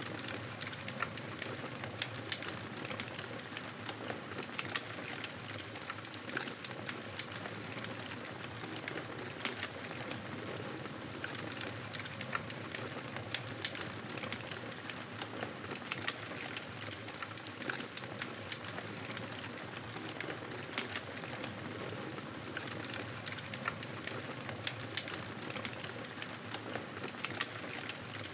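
Fire crackling in a fireplace: a steady soft hiss with frequent small, irregular pops and snaps.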